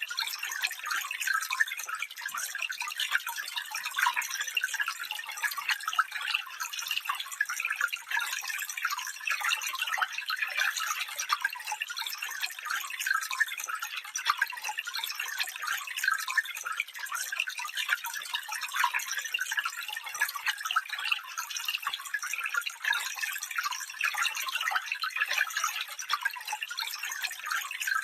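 Small stream babbling and trickling over stones, a steady stream of fine splashes.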